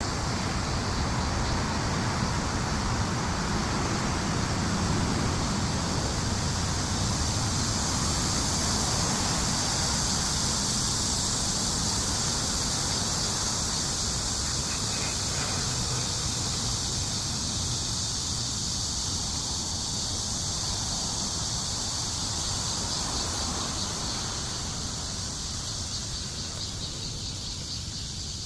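Summer cicadas singing in a steady, high-pitched chorus, with city road traffic rumbling low underneath. The chorus eases off slightly near the end.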